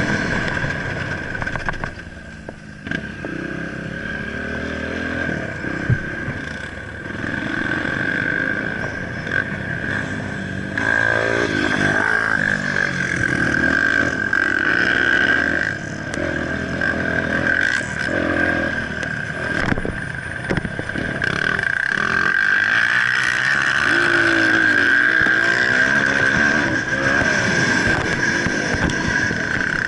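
Motocross bike engine revving up and down as it rides, its pitch rising and falling repeatedly through throttle changes and gear shifts.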